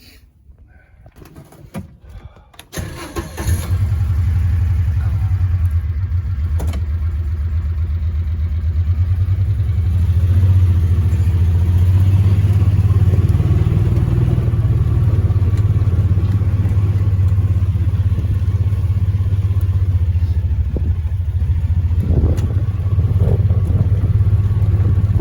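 Vehicle engine starting about three seconds in after a few faint clicks, then running steadily with a low hum.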